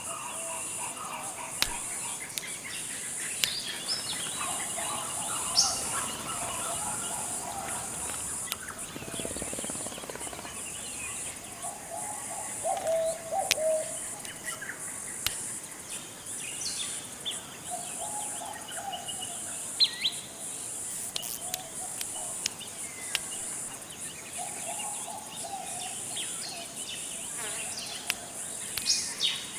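Forest ambience: several birds call and warble in short, scattered phrases over a steady, high-pitched insect chorus, with a few sharp clicks.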